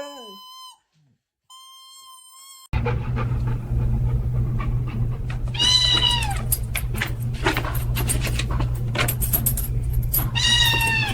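A cat meowing twice, each a short falling call, about halfway through and near the end, over a steady low hum and scattered clicks and knocks. Before that, a dog's howl trails off and a steady tone sounds briefly.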